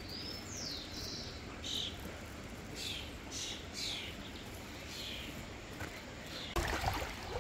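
Wild birds calling: short high whistled notes and slurred chirps, scattered over faint outdoor background noise. Near the end a louder rushing noise sets in.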